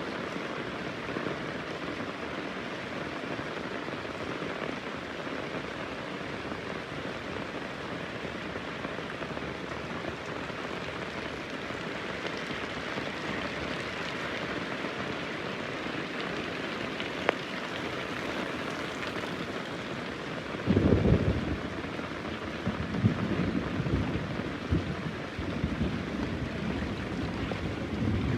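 Heavy rain falling steadily. About two-thirds of the way in, a sudden loud clap of thunder is followed by several seconds of rolling rumble.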